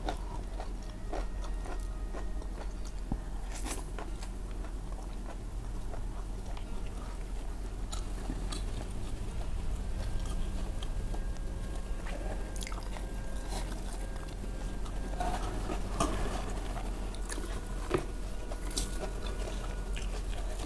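Close-miked chewing as a person eats rice and spiced gizzards by hand, with scattered small mouth clicks over a steady low hum.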